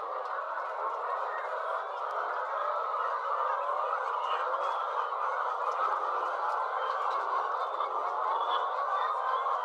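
A large flock of caged laying hens calling and clucking together, a steady, dense din with no breaks.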